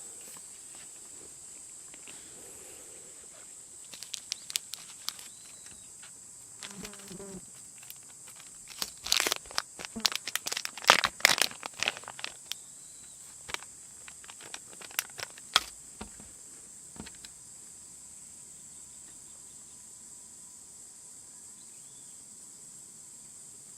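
A steady high-pitched insect drone with a run of sharp crinkling, crackling clicks in the middle, densest about halfway through.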